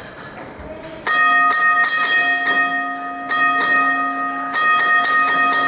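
Old Melbourne W2-class tram's gong rung over and over, starting about a second in: quick, irregular strokes, each leaving a clear, sustained ring.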